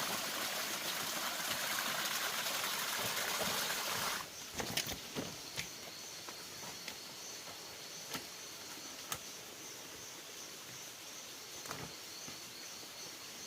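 Rushing, flowing water that cuts off suddenly about four seconds in. It is followed by quieter outdoor ambience with a steady high insect trill and a few scattered sharp clicks or snaps.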